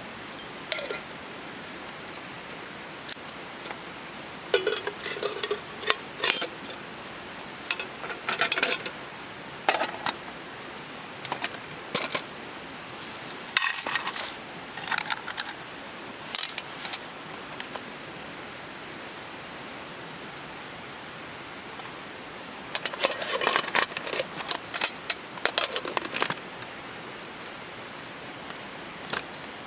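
Metal cookware and utensils clinking and clattering in irregular clusters, over a steady background hiss.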